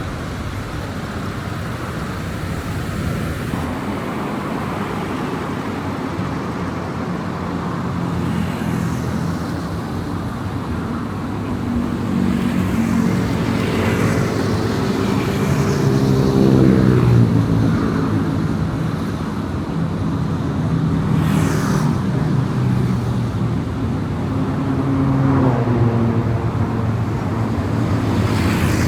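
Car driving on a highway: steady tyre and road noise, with an engine note that climbs and then drops away twice, and other vehicles whooshing past.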